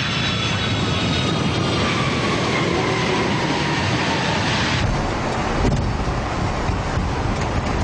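Jet airliner's landing rollout heard in the cockpit: loud engine and air rush with a whine that falls in pitch as the aircraft decelerates on the runway just after touchdown. The rush drops away suddenly about five seconds in, followed by a click.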